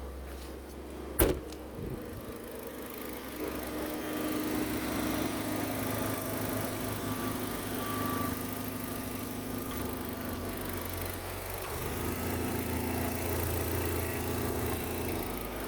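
Opel Astra H's 1.6-litre Z16XER four-cylinder petrol engine running steadily at idle for an engine test, after a single sharp knock about a second in.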